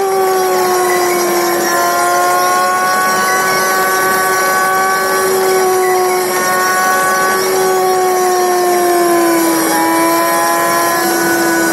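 A car's engine sped up sixfold in a timelapse, heard as a steady high-pitched whine while cruising; the pitch dips slightly near the end.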